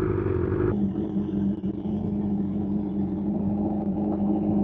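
BMW S1000RR inline-four motorcycle engine running steadily at low speed. The engine note drops abruptly about a second in and then holds steady.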